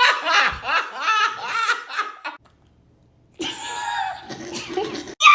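Several people laughing hard, breaking off abruptly for about a second partway through, then laughing again.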